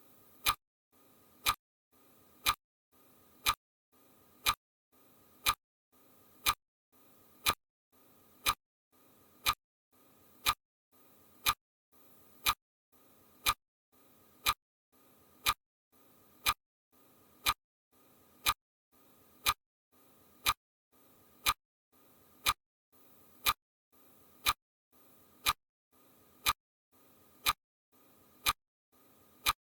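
Sharp, perfectly even ticks, one a second, each followed by a faint short hiss.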